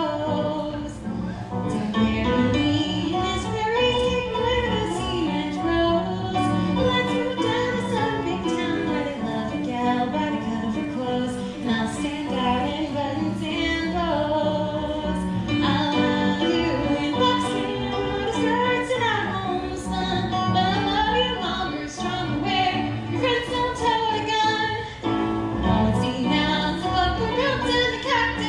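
A woman singing over instrumental backing music with a regular beat.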